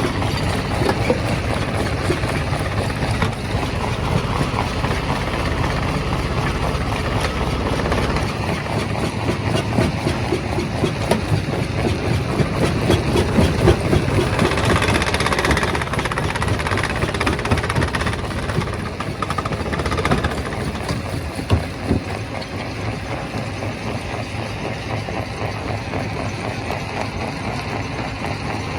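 Primary rock crusher running: a steady engine drone under a dense, irregular clatter of rock being crushed, louder for a few seconds midway.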